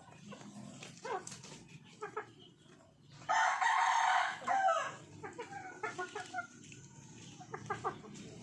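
Chickens: a rooster crows once, a loud call lasting over a second about three seconds in, among short scattered clucks from the flock.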